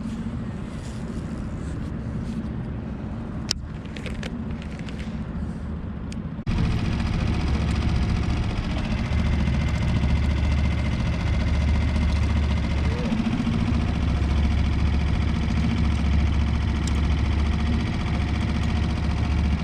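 Small Tohatsu 3.5 hp outboard motor running steadily with the boat under way, amid wind and water noise. About six seconds in the sound steps suddenly louder, with a much heavier low rumble that stays to the end.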